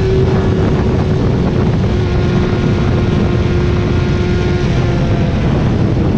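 Motorcycle engine running steadily while riding, a single drone that sags slightly in pitch over a few seconds, over a loud, steady rush of road and wind noise.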